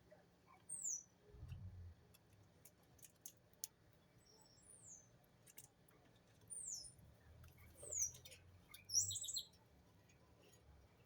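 Small birds giving short, high chirps that slide down in pitch, about five of them spread out, with a few faint clicks between.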